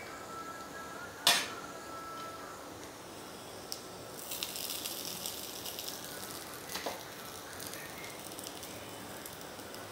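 Semolina snack pieces shallow-frying in a little oil, a soft steady sizzle. About a second in, a sharp clink rings briefly; crackling rises for a couple of seconds as another piece is laid into the hot pan about four seconds in, and a second knock comes near seven seconds.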